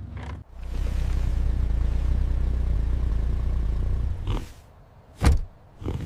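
A vehicle engine runs with a steady deep rumble, then drops away about four seconds in, followed by three short sharp sounds.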